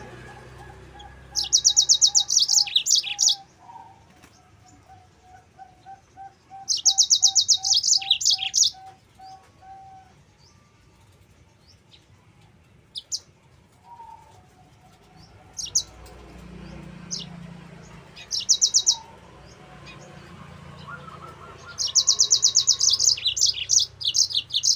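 Yellow-fronted canary (Mozambique canary) singing: four loud bursts of very rapid, high trilled notes, each about one to three seconds long, separated by quieter gaps with scattered short chirps.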